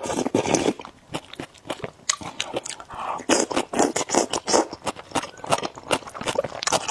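Close-miked eating of noodles: chewing and slurping, with many wet mouth clicks.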